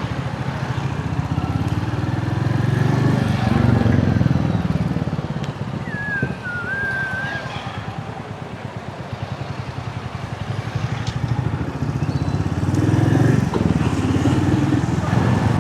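Motorcycle engine running while riding, its exhaust note swelling under acceleration twice, a few seconds in and again near the end, and easing off in between. A short wavering high tone sounds briefly near the middle.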